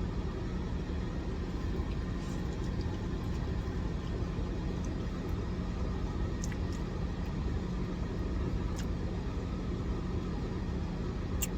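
Steady low rumble of an idling vehicle engine, with a constant faint hum and a few faint clicks.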